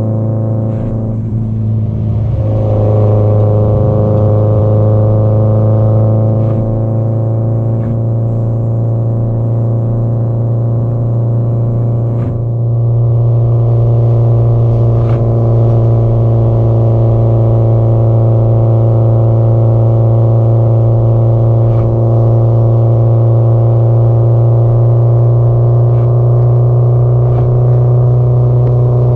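Subaru Impreza GDB-E's turbocharged flat-four exhaust running at a steady cruise, a low, even drone. The note dips and changes briefly about two seconds in and shifts again about twelve seconds in, then holds steady.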